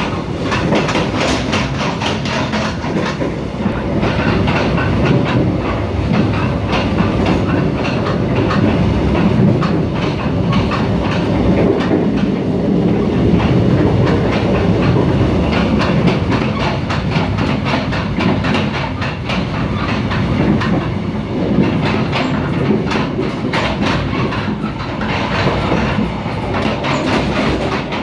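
Mugunghwa-ho passenger coach running at speed, heard from inside the car: a steady rumble of wheels on rail with a constant run of short wheel clicks.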